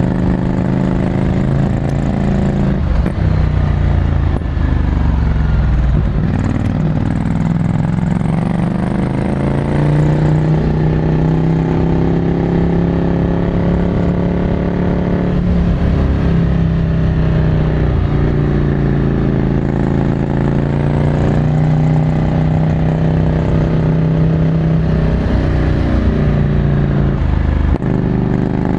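Ducati Scrambler Desert Sled's air-cooled 803 cc L-twin running through a full Termignoni exhaust while being ridden. The engine note climbs and drops back several times as the revs rise and fall.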